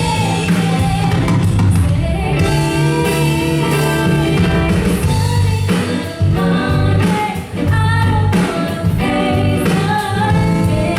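A singer performing a pop song live with instrumental accompaniment: sustained, gliding sung notes over a steady low bass line.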